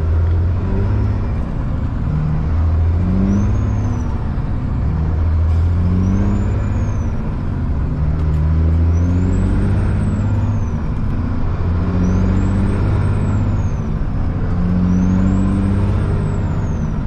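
Caterpillar C-15 straight-six diesel of a truck running under way, a dense low engine note that keeps rising in short steps. A faint high whistle rises and falls every few seconds over it.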